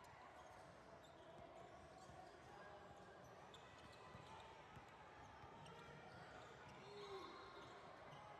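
Faint sounds of a basketball game in a gym: a ball bouncing on the court, with scattered knocks and distant voices.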